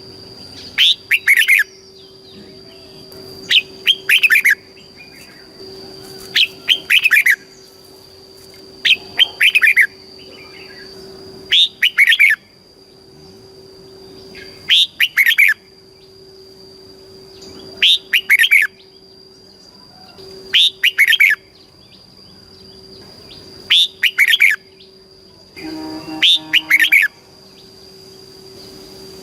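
Red-whiskered bulbul singing short, bright, repeated song phrases, one about every three seconds, over a faint steady high tone.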